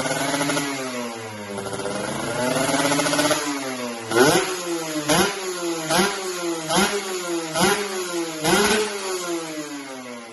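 Kawasaki Ninja RR two-stroke motorcycle engine through a Franz R2 aftermarket muffler, revved up and down twice, then blipped sharply six times about a second apart before dropping back toward idle.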